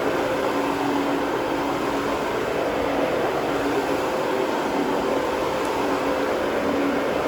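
A motor running steadily: a constant rushing noise with a low, even hum, unchanging throughout.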